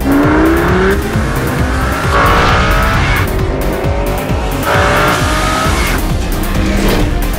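Sports car engine accelerating hard, its pitch climbing in several runs of about a second, each broken off by a gear change, over music with a steady beat.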